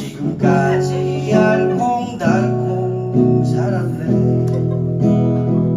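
Acoustic guitar strummed in steady chords, with a fresh stroke about once a second, accompanying a song.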